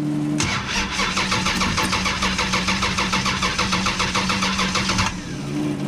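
512 cubic-inch big-block Mopar stroker engine being cranked over by its starter for about five seconds in an even, fast rhythm without firing, near to catching ('about to hit'). A steady hum drops out when the cranking begins and returns after it stops.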